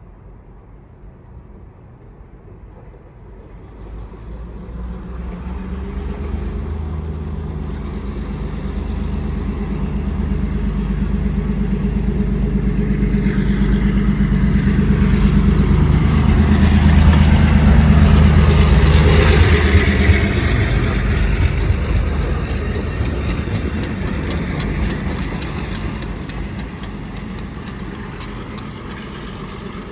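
Long Island Rail Road train passing through the station at speed without stopping: a rumble builds from about four seconds in, peaks around the middle with a falling-pitch sweep as it goes by, then fades. Near the end, rapid even clicking of wheels over rail joints as the train moves away.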